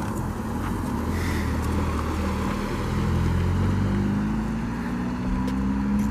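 Nissan 350Z's V6 engine running under way, its note climbing steadily in the second half as the revs rise.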